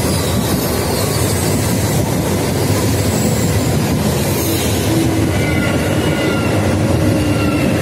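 High-speed passenger train passing at speed, a loud, steady rush of wheels on rail and air, with faint high whines coming and going over it.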